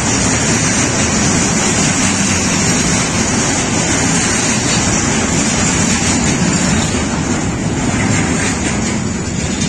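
Freight train of pocket wagons carrying truck semi-trailers rolling past: a loud, steady noise of steel wheels on the rails, thinning slightly near the end as the last wagon goes by.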